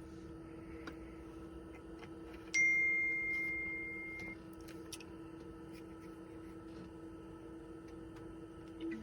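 A single high electronic ding that starts sharply, fades over nearly two seconds and then cuts off, over a steady low electrical hum.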